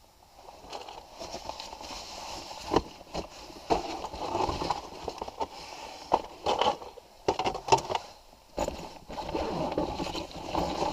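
Rummaging and handling: rustling of packaging with irregular clatters and a string of sharp knocks as a cache box and its contents are moved about.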